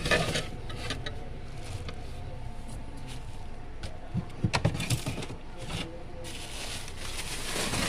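Rustling and handling noise as vegetables are moved about in a refrigerator, with a quick cluster of light knocks about halfway through and louder rustling near the end.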